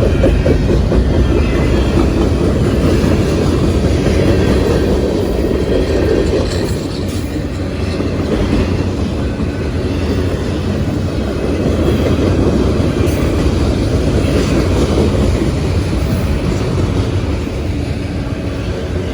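A train passing, with a steady, loud rumble of its wheels on the rails that eases slightly about seven seconds in.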